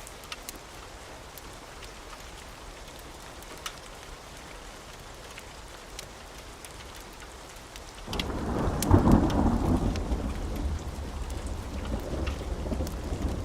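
Steady rain with occasional sharp crackles. About eight seconds in, a roll of thunder starts suddenly, is loudest about a second later, and keeps rumbling after that.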